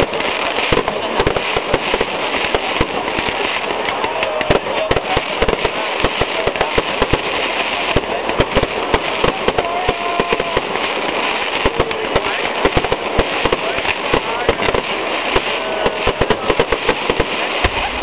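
Fireworks display: a dense, irregular stream of bangs and crackling shells, with a crowd of spectators talking underneath.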